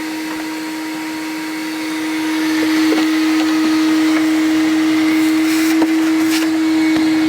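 Vacuum cleaner running steadily with a humming tone, growing louder about two seconds in, with a few light clicks.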